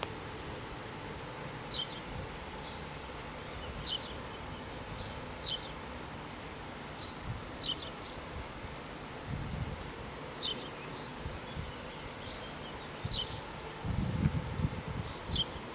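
Short, sharp, falling bird calls repeating every second or two over a steady outdoor hiss, with low rumbles near the end.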